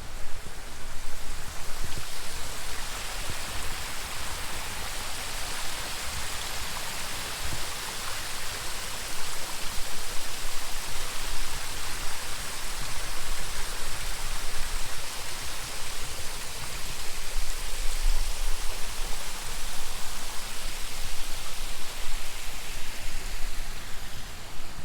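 Coesa Spring spouter, a carbonated mineral spring jetting water that splashes down in a steady rushing hiss.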